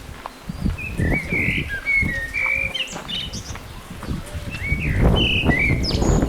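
A small bird chirping in two runs of short, quick notes, over a low rumble of wind on the microphone.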